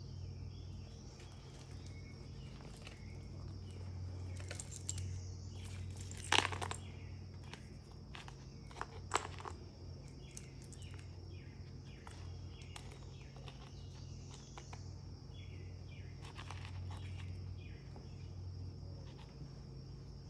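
A handmade junk journal being handled and its pages turned: soft rustles and scattered light knocks and taps, two sharper ones about six and nine seconds in, over a steady low hum.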